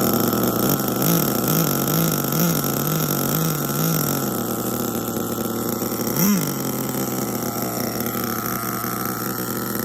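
Hong Nor Force 32 5.2cc two-stroke nitro engine with a tuned pipe, running near idle during break-in. For a few seconds its note rises and falls about twice a second, and a short blip of revs comes about six seconds in.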